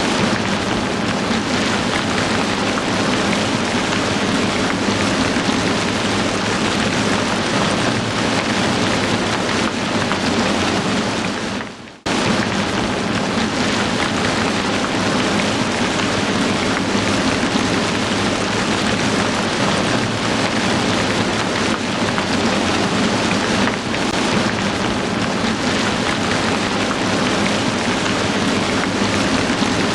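Heavy rain falling in a steady, dense hiss. About twelve seconds in it fades down for a moment and cuts straight back in.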